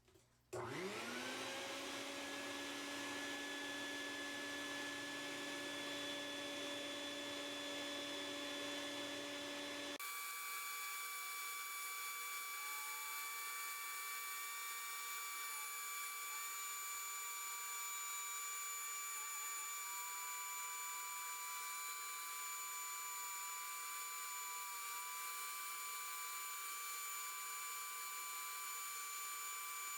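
Small high-speed rotary grinding tool spinning up about half a second in and running with a steady whine, grinding down a replacement figure arm. About a third of the way through the sound changes abruptly to a higher whine whose pitch dips and wavers as the bit bears on the work.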